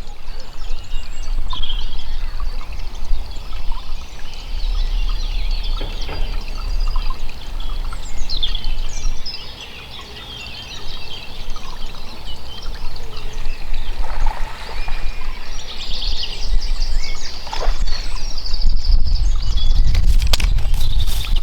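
Small birds singing and chirping continuously, with short gliding whistles, over an uneven low rumble.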